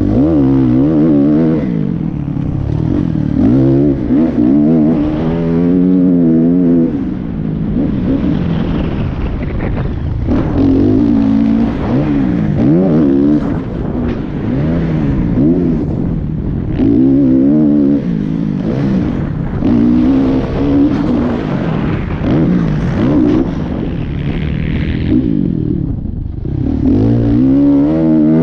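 Motocross dirt bike engines revving hard, the pitch climbing and falling back again and again as the bikes accelerate, shift and let off around the track.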